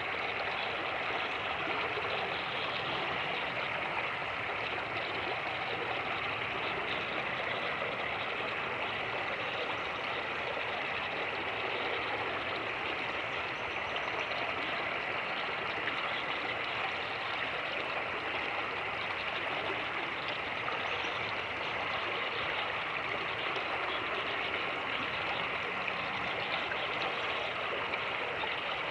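Fast-moving creek rushing and gurgling over rocks: a steady, even wash of water.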